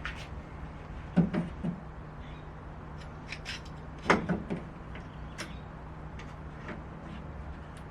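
Scattered light knocks and clicks of a door and its window panel being handled during a repair, over a steady low hum. Two short pitched sounds come about a second and about four seconds in.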